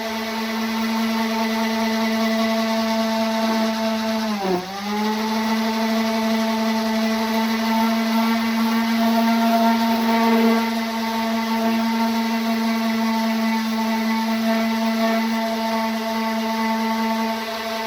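Electric orbital sander running steadily while sanding car bodywork. It holds one steady pitch, which dips sharply for a moment about four and a half seconds in and then comes back up.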